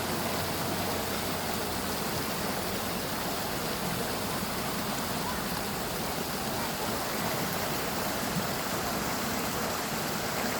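Steady rushing of flowing water, an even hiss-like noise with no breaks.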